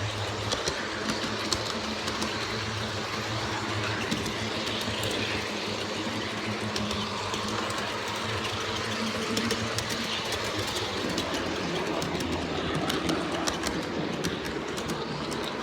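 G scale model diesel locomotives running on track: a steady low motor and gear hum with frequent small clicks of the wheels over the rails.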